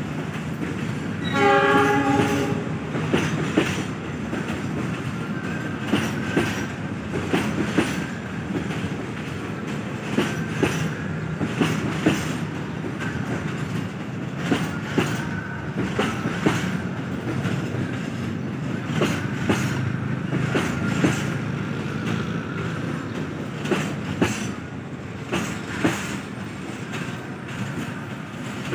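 Passenger train rolling past below: steady rumble of the cars with a continuing series of sharp clacks as the wheels cross rail joints. A train horn sounds once, briefly, about a second in.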